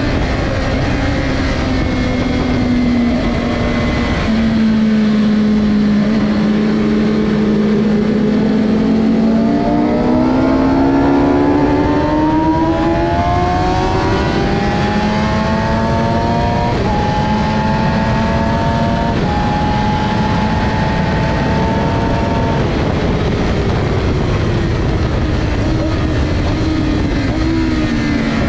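Suzuki GSX-R600 inline-four engine heard from onboard at full throttle on a straight: the revs climb steadily, drop back at two quick upshifts, then fall away in the last few seconds as the throttle closes to brake for a corner. Heavy wind rush on the microphone underneath.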